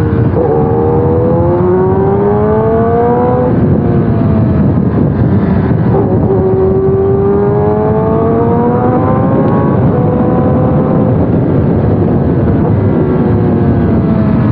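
Kawasaki ZX-10R inline-four motorcycle engine pulling up through the gears. Its pitch climbs for a few seconds and drops back at each shift, four times, over steady wind and road noise.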